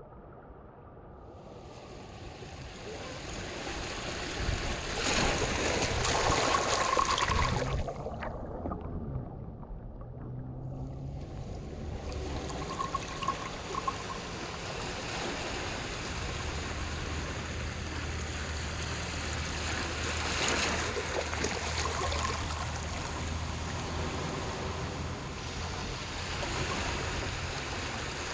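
Harbour water surging and washing in, loudest in a surge about five to eight seconds in, then falling away briefly before a steady wash returns. A faint low steady hum runs under the water through the middle.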